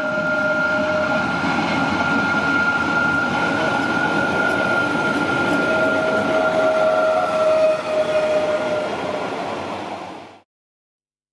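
Vintage Rhaetian Railway train hauled by the 1929 'Krokodil' electric locomotive No. 414 rolling past, a steady rumble of wheels on rails with a high thin tone held over it and a lower tone that comes and goes. The sound fades out near the end.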